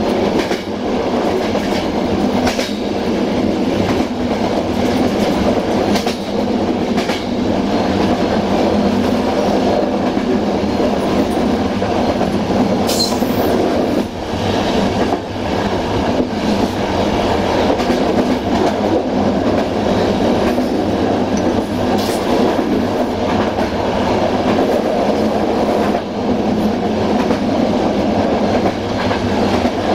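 Passenger train running along the line, heard from on board at its rear: a steady rumble of wheels on rail, with a few sharp clicks at uneven times as the wheels cross rail joints.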